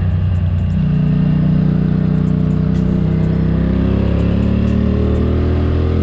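Ducati Monster 620's air-cooled L-twin engine running under way, steady at first, then revving up over the last couple of seconds as the bike accelerates.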